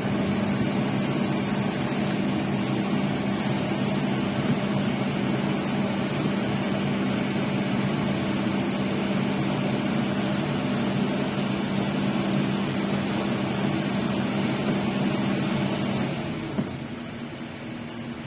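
Excavator's diesel engine running steadily with an even hum. About sixteen seconds in it falls away to a quieter engine sound.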